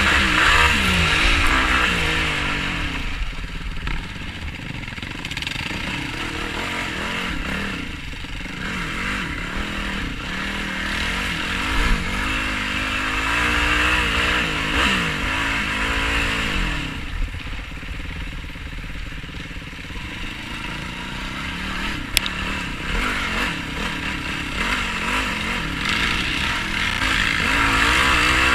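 Yamaha YFZ450R sport quad's single-cylinder four-stroke engine revving up and down repeatedly while riding offroad, rising and falling in pitch as the throttle is worked, over a steady low rumble.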